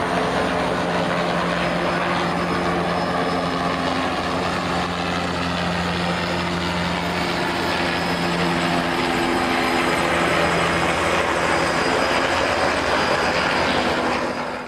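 Steady, loud mechanical drone, like a running engine or vehicle, with a hum of several steady tones. It cuts off abruptly at the very end.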